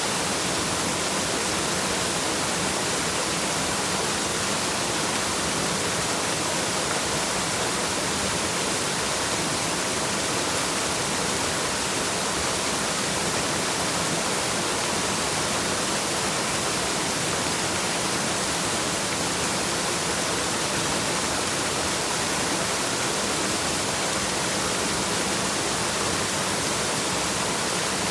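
Waterfall: a steady, hissy rush of falling water that never changes, with no other sounds over it.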